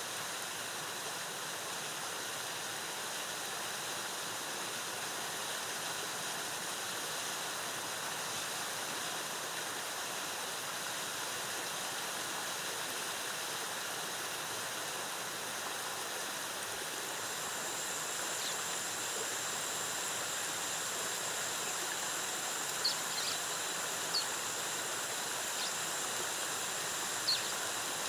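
Waterfall's cascading water rushing steadily. From a little past halfway a thin, high steady tone joins, and near the end there are a few short, high chirps.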